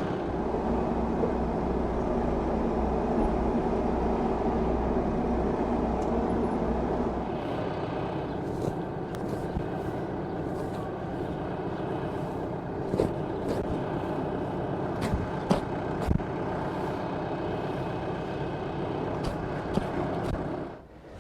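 A motor-driven machine running steadily, its deepest rumble dropping away about seven seconds in, with scattered knocks and clicks over it. It shuts off abruptly just before the end.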